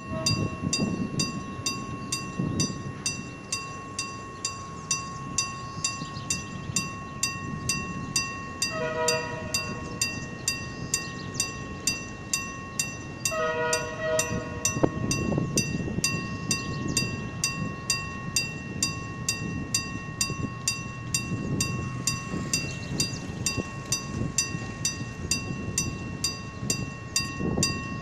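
Passenger train's diesel locomotive running at low speed with a low rumble and an even, rapid ticking throughout. It sounds two short horn blasts, about 9 and 13 seconds in.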